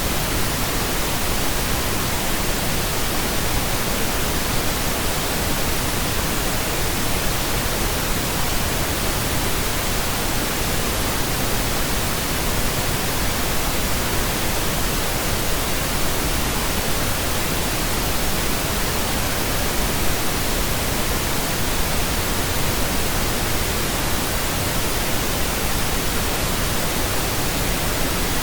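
Steady pink noise: an even, unchanging hiss spread across the whole range of pitch, with no tones or events.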